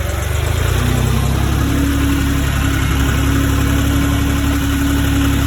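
Tractor engine speeding up about half a second in, then running steadily, with a steady whine joining a little later.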